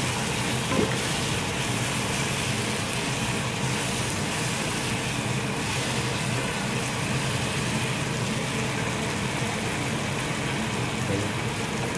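Vegetables frying in a pot: a steady sizzling hiss, with a low steady hum underneath.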